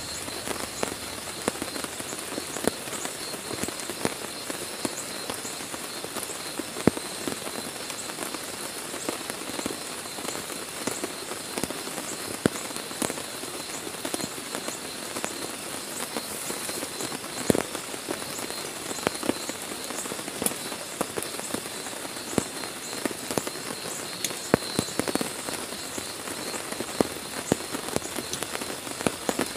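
Heavy rain falling on a tent: a steady hiss with many sharp, separate drop hits scattered through it.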